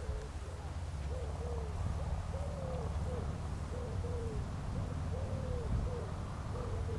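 A bird calling a low two-note phrase, a longer note followed by a shorter one, repeated about every second and a half over a steady low rumble.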